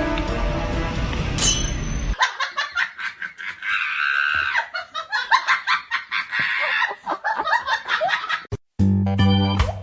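Music that cuts off about two seconds in, followed by a person laughing over a string of short clicks and knocks. Organ-like music starts near the end.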